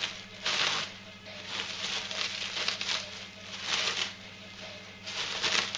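Industrial cling film and plastic packaging crinkling and rustling in several bursts as it is pulled off by hand.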